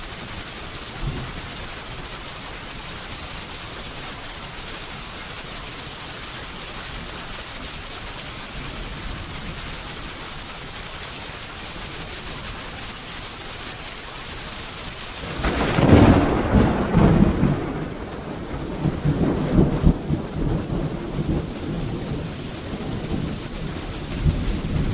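Steady heavy rain hissing, then about fifteen seconds in a loud thunderclap breaks and rolls on as rumbling thunder over the rain.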